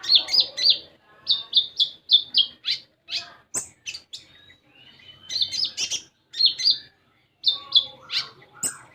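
Konin songbird singing rapid phrases of sharp, high chirping notes in quick runs of two to four, with a short pause a little after the middle. This is a lively full song of the kind used to coax other konin into singing.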